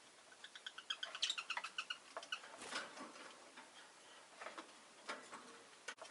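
Rosy-faced lovebird giving a quick run of short, high chirps, followed by a scratchy rustle about halfway in and a few sharp clicks near the end.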